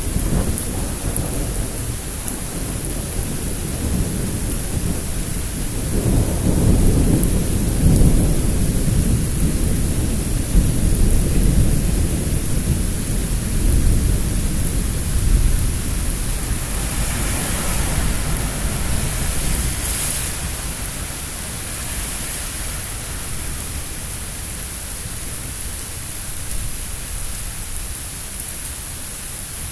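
Thunder rumbling over steady rain: a long, low roll that swells about six seconds in and dies away over the next fifteen seconds or so, with the rain hissing on throughout.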